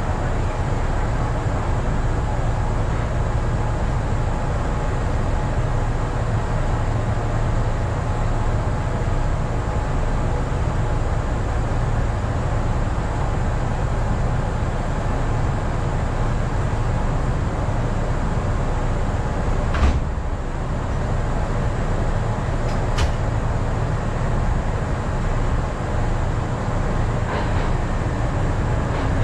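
Steady low hum of a stationary electric train's onboard equipment, heard from inside the driver's cab. There is a single sharp clunk about two-thirds of the way through and a couple of light clicks a few seconds later. Near the end an oncoming train pulls in on the adjacent track.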